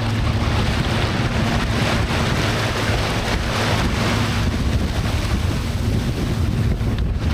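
Wind buffeting the microphone and water rushing past the hull of a 32-foot sailboat under sail, with no engine running, as it moves fast through waves. A heavy, steady low rumble.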